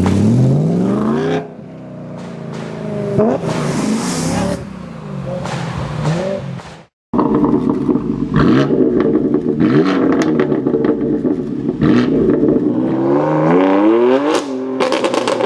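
BMW E90 M3's 4.0-litre V8 through a handmade exhaust, revving and accelerating in several rising sweeps. The sound cuts out suddenly for a moment about seven seconds in, then comes back loud.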